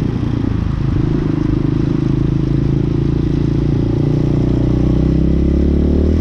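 Hawk 250cc motorcycle engine running at a steady pitch while riding.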